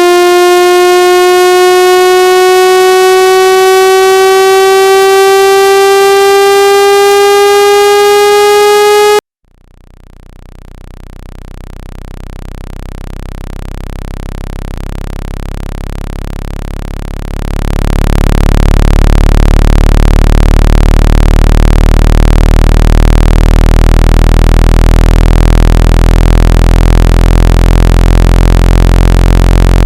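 Synthetic speaker water-ejection tones, played loud to vibrate trapped water out of a phone or earphone speaker. A buzzy tone glides slowly upward in pitch and cuts off abruptly about nine seconds in. A deep, low buzzing tone then fades in, jumps louder a little past halfway, and holds steady.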